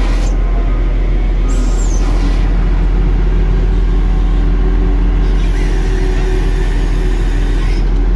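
Volvo grapple truck's diesel engine running steadily at raised throttle with the PTO engaged to drive the grapple, with short bursts of hissing about two seconds in and again from about five seconds in.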